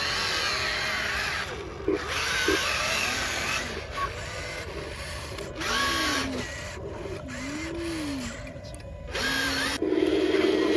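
Small electric motors of an RC model truck whining in short runs, each speeding up and slowing down, with a louder steady whine near the end.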